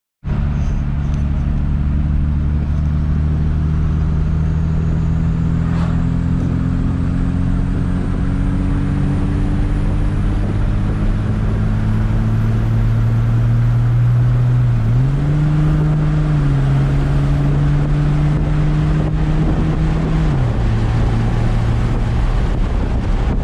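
Cummins 5.9 L inline-six turbo-diesel in a 2006 Dodge Ram running under way as the truck is driven, its engine note rising slowly. The pitch steps up about 15 seconds in and drops back about 5 seconds later.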